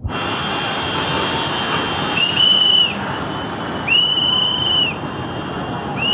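Three long whistle blasts, each sliding up at the start and down at the end, over a loud steady rush of noise from fast-flowing floodwater.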